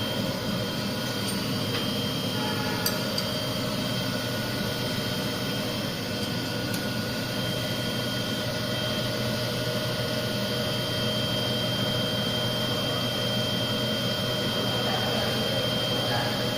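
Small CNC cylindrical grinder running steadily, its spindle motor and grinding wheel making an even hum with several constant tones. A higher steady whine joins about a third of the way in, and there are a few faint clicks.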